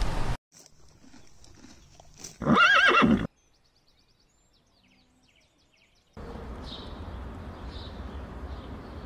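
A horse whinnying: one short, loud, quavering call about two and a half seconds in. Near silence follows, then a steady low outdoor rustle with faint bird chirps.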